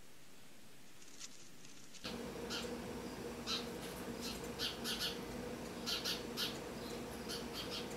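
Small birds chirping: short, high chirps come in quick irregular clusters over a steady low hum. They start about two seconds in, after a quiet stretch with a few faint ticks.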